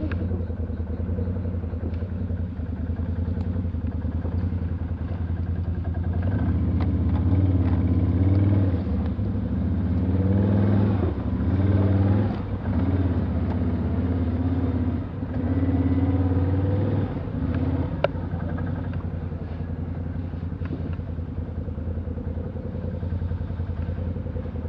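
Small off-road vehicle engine running steadily, then revving up and down unevenly for about ten seconds as it is worked hard over rough ground, before settling back to a steady run. One sharp knock comes about three-quarters of the way through.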